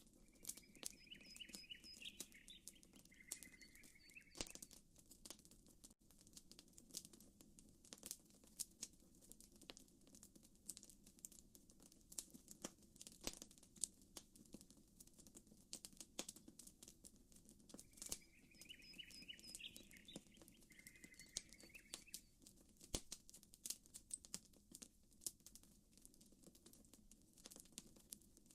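Campfire crackling, with many sharp pops and snaps over a low steady rumble. A bird gives a short chirping trill about a second in and again about eighteen seconds in.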